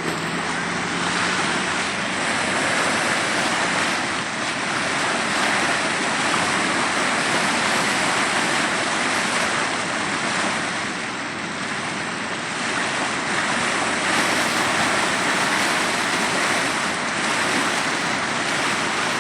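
Floodwater rushing steadily along an overflowing bayou.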